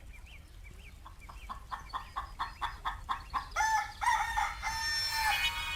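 Rooster clucking in a quick run of short calls, about five a second, then crowing in several drawn-out parts from about three and a half seconds in.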